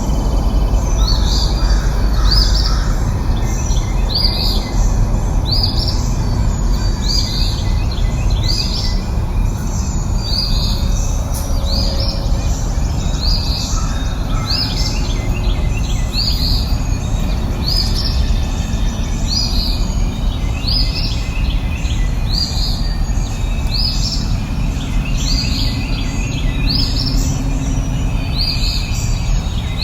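A songbird repeating the same short call rising in pitch, about once a second and very regular, over a steady low background noise.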